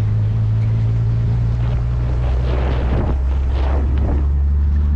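Ford Ranchero's engine running steadily at low revs, heard from on board, with a rush of wind or road noise over it in the middle.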